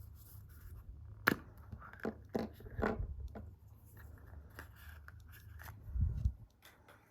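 Small handling sounds of a surprise egg being opened: a sharp click about a second in, then several crackling clicks and scrapes like a wrapper and plastic capsule being worked, and a dull thump near the end, over a low steady hum.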